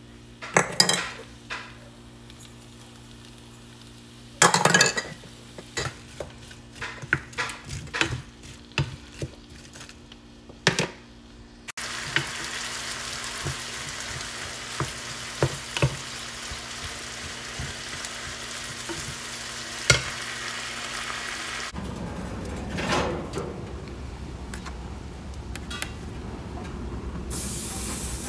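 Sharp clicks and taps of utensils on a nonstick frying pan holding frozen mixed vegetables. About twelve seconds in, a steady sizzle starts as the vegetables fry in melted margarine and are stirred with a wooden spatula. Near the end, a steak laid on a hot gas grill starts to sizzle.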